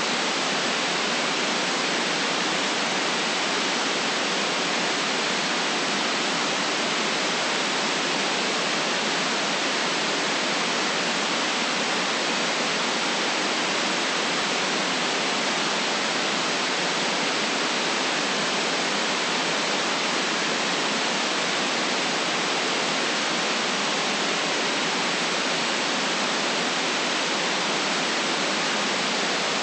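Steady white noise: an even, unchanging hiss with nothing below a low bass cut and nothing above a treble cut.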